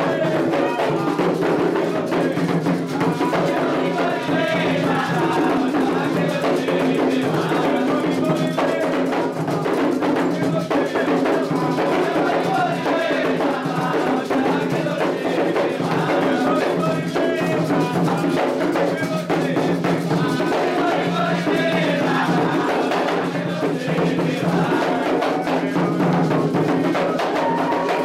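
Candomblé ritual music: atabaque hand drums played in a fast, continuous rhythm with a struck bell keeping time, under voices singing a chant for Oxalá.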